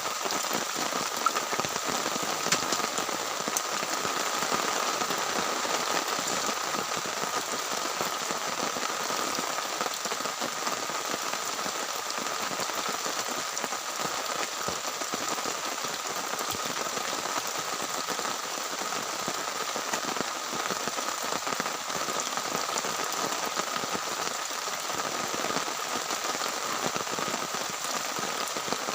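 Heavy rain falling steadily on a tent, a dense even patter with a couple of sharper drop hits about one and two and a half seconds in.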